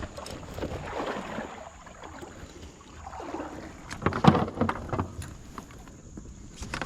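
Water swishing and sloshing around a fishing kayak as it is maneuvered, with a cluster of knocks against the hull about four seconds in.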